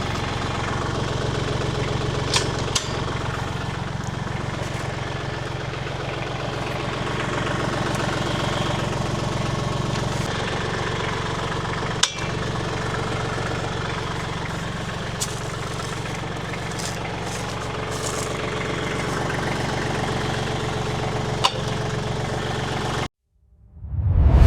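Tractor engine running at a steady idle, with a few sharp clicks over it; the sound cuts off abruptly near the end.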